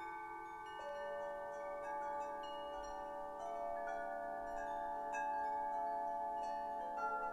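Chimes ringing freely: many metal tones layered over one another, with new notes struck at irregular moments and each one sustaining a long time.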